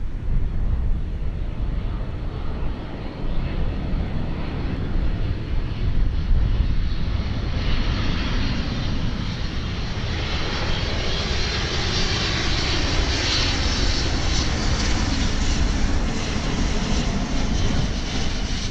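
Twin-engine jet airliner passing low overhead. A low rumble builds into loud jet noise with a strong hiss from about a third of the way in, loudest a little past halfway, and still loud near the end.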